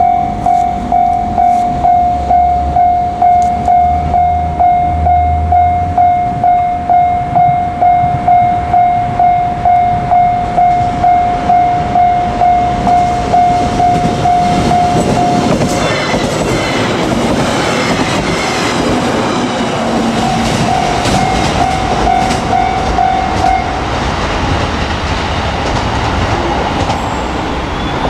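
Level-crossing warning bell ringing about twice a second, then a JR Kyushu 817 series electric multiple unit passes over the crossing from about halfway through, its wheels clicking over the rail joints. The bell keeps ringing under the train and stops a few seconds before the end.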